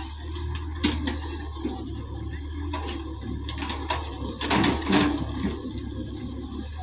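Tractor diesel engine running steadily, with scattered knocks and a louder rattling burst about four and a half seconds in.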